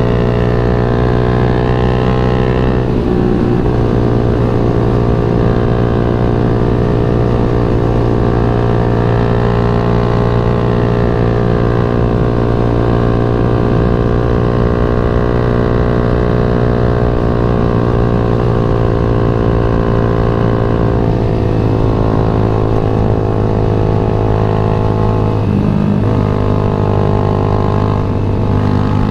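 Yamaha MX King 150 single-cylinder four-stroke engine running under way at a fairly steady speed, its pitch dipping briefly a few times.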